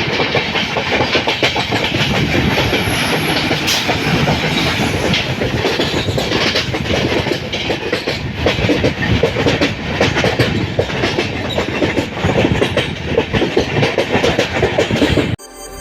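LHB passenger coaches running at speed: continuous rumble with a dense clatter of wheels over the rail joints. It cuts off abruptly near the end.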